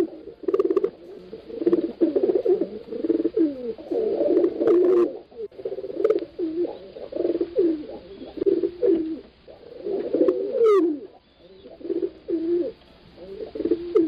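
Several pigeons cooing, their low, repeated calls overlapping one another with brief gaps between phrases.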